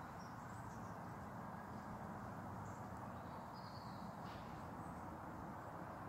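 Faint outdoor ambience: a steady low hiss with a few faint, short, high chirps of small birds scattered through it.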